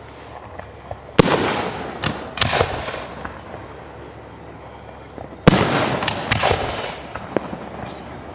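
Fireworks shells bursting overhead: a sharp bang about a second in, then two more in quick succession, then a pause before another loud bang and a couple of smaller ones, each trailing off in a rumbling echo.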